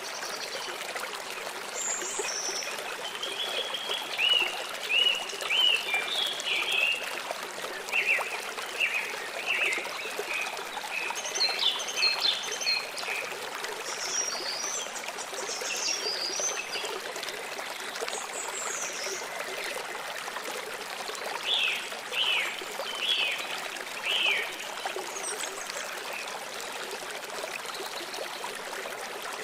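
Steady trickling flow of running water with birds chirping over it in groups of quick, high calls; the birds fall quiet for a few seconds past the middle, then chirp again.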